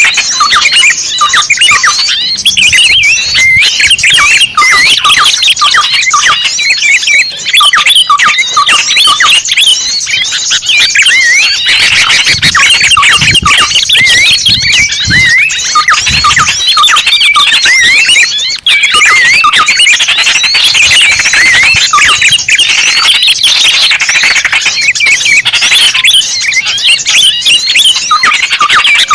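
A loud, dense chorus of many small birds chirping and twittering in rapid, overlapping calls. It is a lure recording played to draw small wild birds in.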